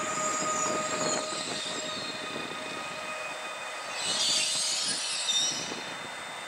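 Train moving through a station: a steady high whine fading over the first few seconds, then a burst of high-pitched wheel squeal about four seconds in, over the rumble of the train.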